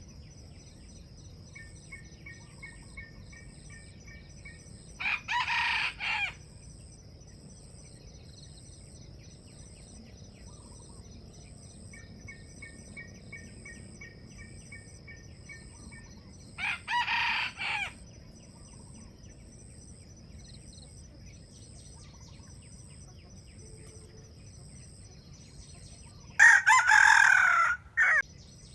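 Junglefowl roosters crowing three times, short clipped crows about ten seconds apart, the last the loudest and longest. Between the crows a small bird sings a quick run of repeated chirps, over a steady pulsing insect drone.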